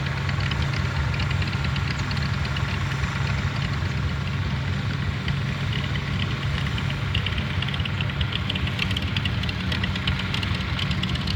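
Turbocharged Cub Cadet 782 diesel garden tractor engine running steadily while pulling a 5-foot disk through the ground. A light, rapid rattling rides over it and gets stronger in the second half.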